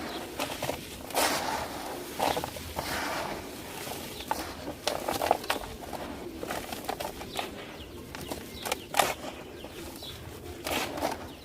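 Dry, dusty clay or cement crumbling and crunching by hand, a run of irregular crackles and gritty crunches.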